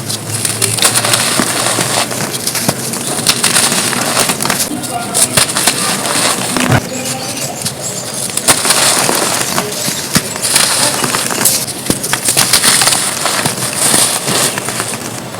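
Gritty, dusty red dirt cones crumbling and crunching: a dense run of fine crackles with sharper crunches at irregular moments throughout.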